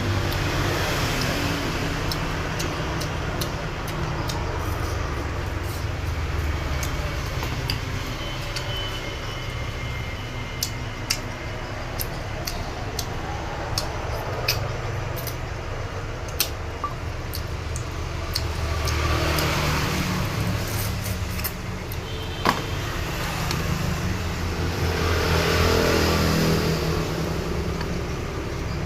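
Steady road traffic rumbling in the background, swelling as vehicles pass about two-thirds of the way through and again near the end, with scattered small clicks over it.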